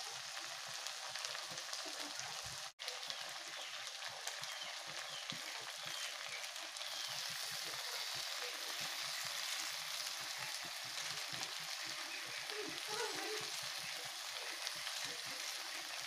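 Vegetables sizzling as they stir-fry in a wok, a steady hiss with a momentary break about three seconds in.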